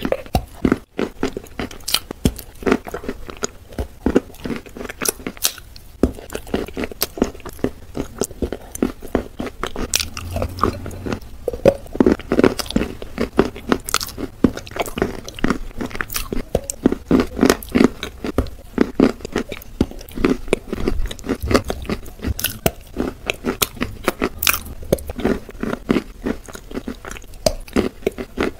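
Close-miked biting and chewing of chalk pieces coated in wet clay paste: crisp crunches following one another in quick succession.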